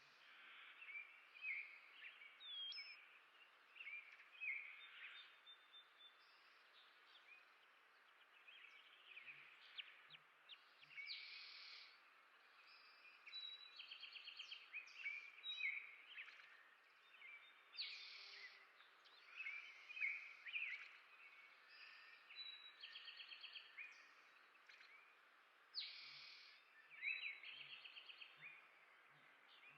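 Songbirds chirping and calling, faint, with short chirps throughout and several quick trills a few seconds apart.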